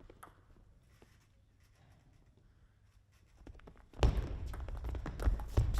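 A few faint taps in a quiet sports hall, then about four seconds in a sudden burst of spectator noise: many sharp claps and low thuds at once.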